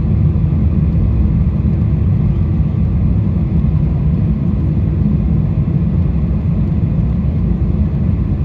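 Steady low roar of a Boeing 747-400 in flight, heard from inside the economy cabin: the four engines and the rushing air over the fuselage make an even rumble with no changes.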